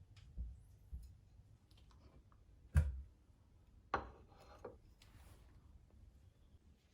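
A few light clicks and two sharper knocks, about three and four seconds in, the first knock the loudest.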